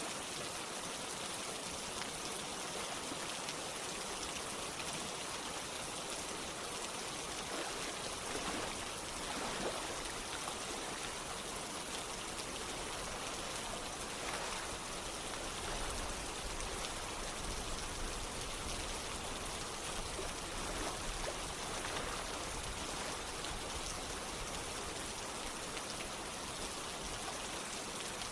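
Steady rain falling together with running water, a continuous even hiss with scattered individual drops.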